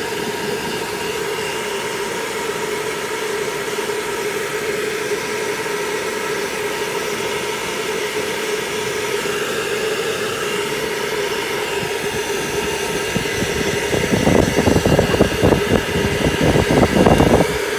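Pet blow dryer running steadily with a constant whine while drying a dog's coat. Near the end, a louder, uneven low rumbling comes in for a few seconds.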